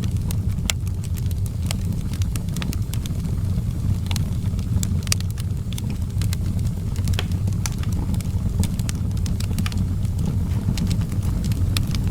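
Outdoor wood fire crackling, with many irregular sharp pops and snaps over a steady low rumble.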